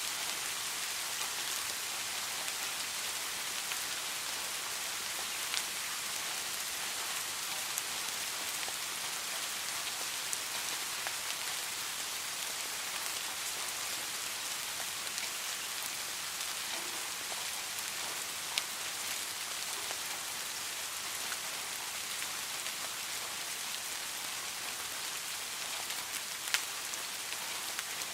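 Steady rain falling, an even high hiss, with a few sharper single drop ticks standing out now and then.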